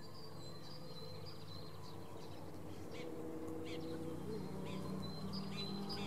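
Small birds chirping in short, scattered high calls over a steady low hum.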